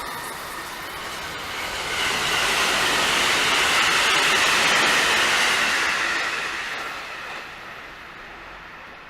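A train passing on the tracks: steady rolling noise of wheels on rails that builds to its loudest around the middle, then fades away.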